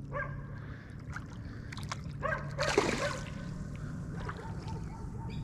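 Water splashing, with the loudest rush of splashing about three seconds in, over a steady low background hum.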